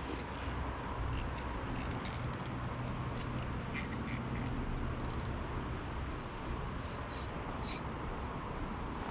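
Firewood crackling and popping in a small B-6 fire stand, a scatter of sharp snaps over a steady low hum.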